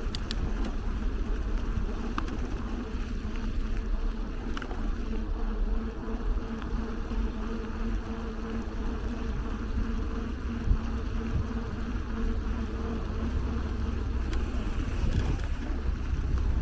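Street traffic heard from a bicycle: a steady low rumble with a droning engine hum and a few faint clicks.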